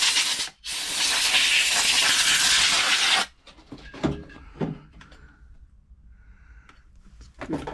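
Compressed air blowing fluff and debris out of the underside of a sewing machine: a short hissing blast, then a longer one of about three seconds that cuts off suddenly, followed by a few light knocks.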